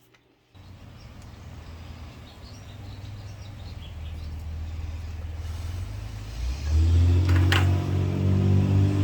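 An engine running with a steady low hum that grows louder, strongest from about six and a half seconds in, with one sharp click near the end.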